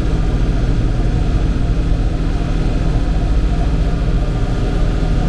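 Old tractor engine running steadily at an even speed, a low, constant drone with no change in pitch.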